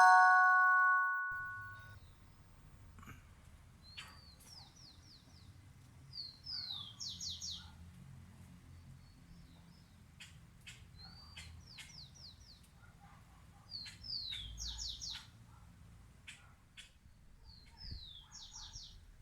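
A songbird repeating the same short high phrase about every three to four seconds: a quick rising note followed by a fast run of four or five falling notes, with scattered sharp chips between. A chiming musical tone fades out in the first second or so.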